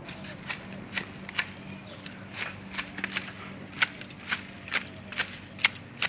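Garden shears clipping a tree's foliage: a quick run of sharp snips, about two or three a second, uneven in spacing.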